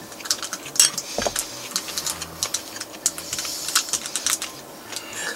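Close-up chewing of crisp fried food, a quick irregular run of small crunching clicks and crackles.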